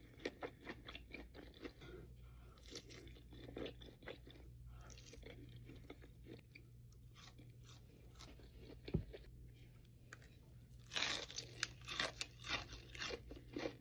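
Close-miked chewing of crispy fried chicken wings: soft crackling chews and small mouth clicks, then a louder run of crunchy bites about eleven seconds in. A single low thump sounds about nine seconds in.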